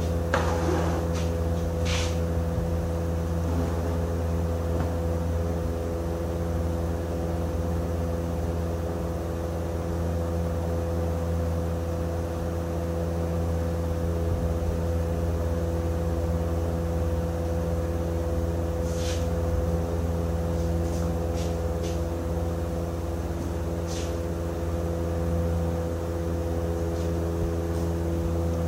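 An engine or motor running steadily at a constant speed, a low even drone, with a few short sharp clicks or taps here and there.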